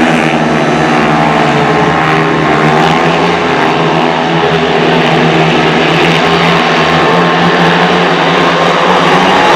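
Several speedway motorcycles racing together, their 500 cc single-cylinder methanol engines running hard at high revs, the pitches of the different bikes rising and falling against each other.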